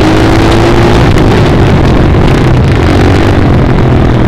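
Small dirt bike engine running loud and steady close to the microphone, its pitch rising slightly in the first second.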